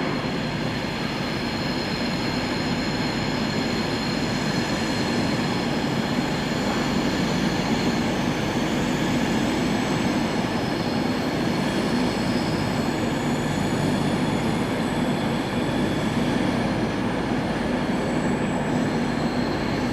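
A train standing or moving slowly at a station platform: a steady running noise, even in level throughout, with a few thin high tones held over it.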